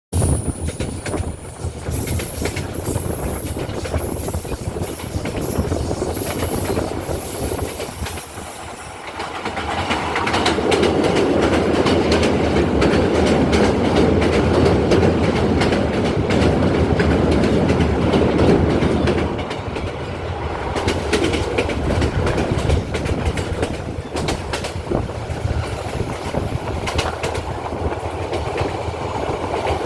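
Train running on the rails, wheels clattering over the track. It grows louder about a third of the way in, stays loud for several seconds, then eases back down.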